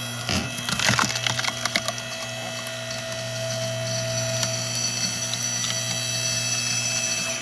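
A log cracking and splintering as a hydraulic log splitter's ram forces it apart. Sharp cracks come fast in the first two seconds, then the splitter's motor hums on steadily.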